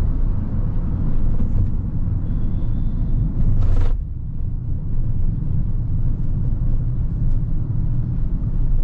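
A Hyundai Creta's 1.5-litre petrol engine and its tyres on the road make a steady low rumble while it is driven. A brief hiss comes about three and a half seconds in, and the rumble eases slightly after it.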